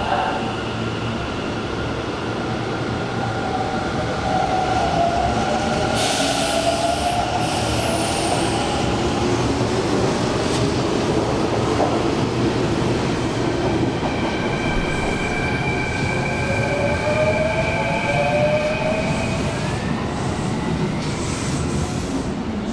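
Hanshin Railway electric train running through the station: a continuous rumble of wheels on rail, with whining tones that slide up and down in pitch and some wheel squeal, and a brief hiss about six seconds in.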